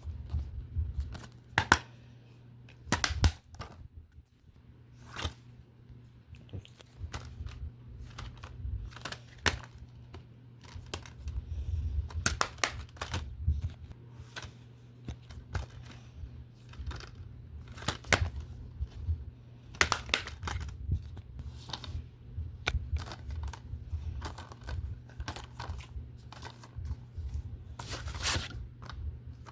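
Plastic DVD and Blu-ray cases being handled: irregular clicks and clacks with rustling, over a steady low hum.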